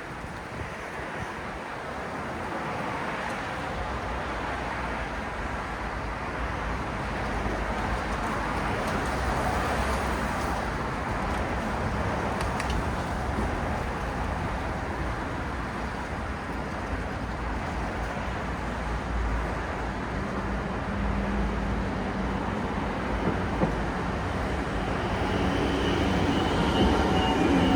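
City road traffic at night: a continuous rush of vehicles and tyres that slowly builds in loudness. A steady engine hum joins it in the last few seconds.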